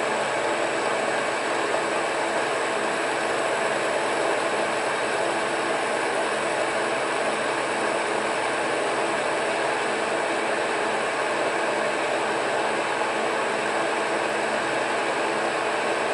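Monarch metal lathe running steadily under power while taking a turning cut, giving an even machine noise with several held tones and no pauses.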